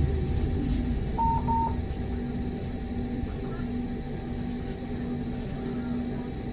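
Inside a moving tram: its low running rumble dies away, leaving a steady electrical hum with a faintly pulsing low tone. Two short, high beeps come about a second in.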